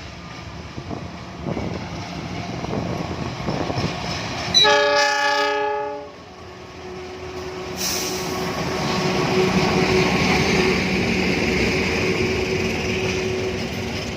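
Train approaching and sounding its horn once, a steady chord lasting about a second and a half, then passing close by with loud, steady wheel-on-rail noise.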